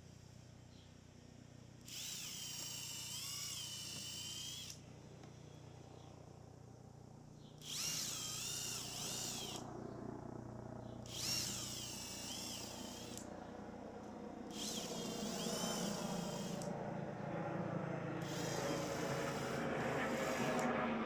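Power drill running in about five short runs of two to three seconds each, its whine dipping and rising in pitch as it loads up, as when driving screws into wood. A low rumble builds toward the end.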